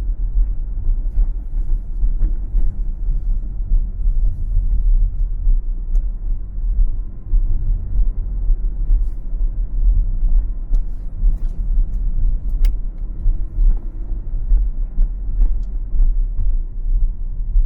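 Car driving on the road: a steady low rumble of engine and tyres, with a few faint scattered clicks.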